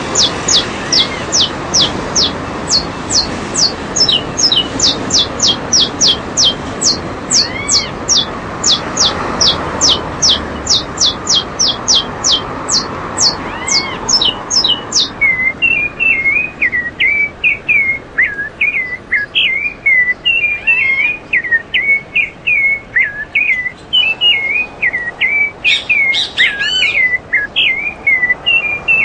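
Caged songbirds calling: a fast series of high, sharply falling whistled notes, about two or three a second, for roughly the first half, then a quicker warbling song lower in pitch through the rest.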